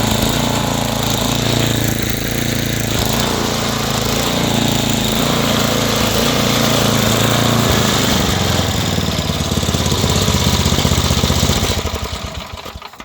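Small gasoline engine, newly swapped in, running steadily under test. Near the end it is shut off and spins down, its firing strokes slowing until it stops.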